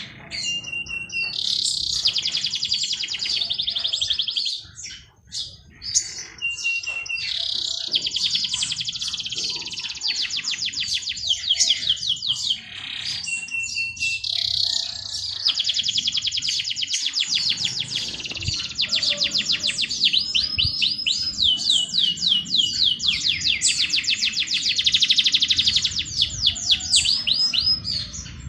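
A songbird singing long, loud phrases of rapid trilled notes, several seconds each, some opening with a short held whistle, with brief pauses between phrases.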